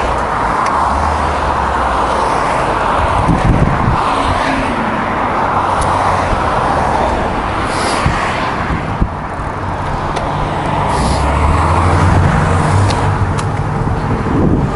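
Road traffic: motor vehicles passing close by on a street, a steady rushing road noise with a low engine drone that swells and fades.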